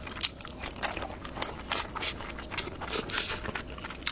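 Close-up chewing of a mouthful of food: a steady string of short, irregular clicks and smacks.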